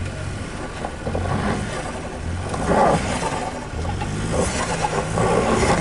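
Ford SUV driving slowly over an off-road trail, its engine running under changing load. The noise swells twice, about halfway through and near the end.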